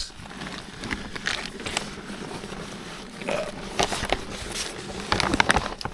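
A person crawling through a crawl space: irregular scuffs and rustles of body and knees moving over the ground, with a run of sharper clicks and knocks near the end.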